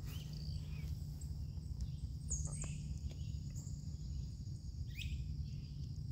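LS V8 in a 1985 Chevrolet C10 idling after a cold start, a steady low rumble. Birds chirp briefly over it a couple of times.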